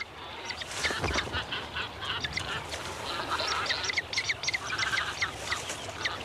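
Nesting waterbird colony: many short, high calls overlapping and repeating, with a steady hiss of background sound underneath.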